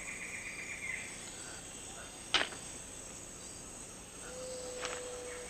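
Rainforest ambience: an insect's rapid pulsing trill that fades out about a second in and starts again near the end, with two short sharp calls, about two and a half and five seconds in, and a steady low whistle-like tone held for about a second near the end.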